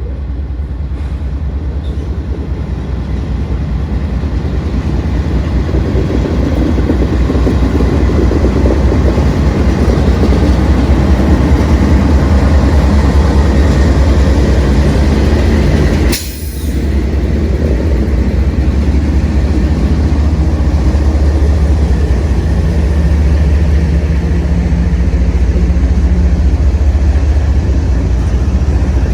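A freight train's diesel locomotives pass with a heavy low engine drone, growing louder over the first several seconds as they come by. About sixteen seconds in there is a brief sharp break, then the train's rumble carries on.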